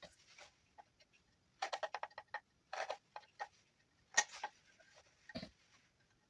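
Knife whittling juniper wood: a run of quick short cutting strokes, then a few separate clicks and scrapes, with a duller knock about five seconds in.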